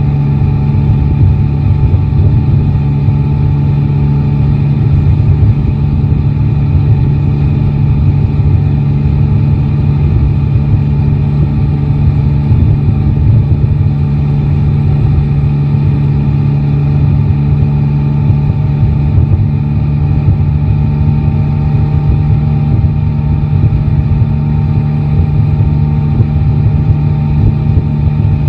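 Yamaha Tracer 9 GT's three-cylinder engine running steadily, heard from the rider's position.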